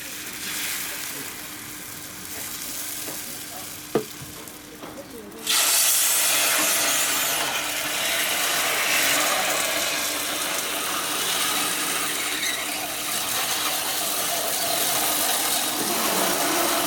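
Food sizzling hard on a hot stall cooking surface: after a sharp click, a loud, steady hiss starts suddenly about five seconds in and keeps going.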